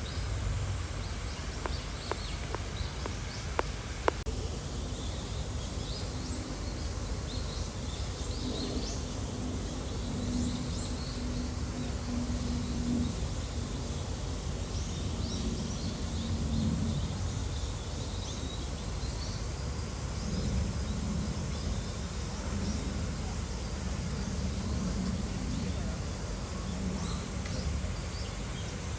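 Steady outdoor background noise with faint, scattered bird chirps and a low murmur of distant voices; a few sharp clicks near the start.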